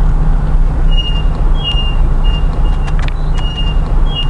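Car engine running, heard from inside the car as a steady low hum, with several short high-pitched tones and a few light clicks over it.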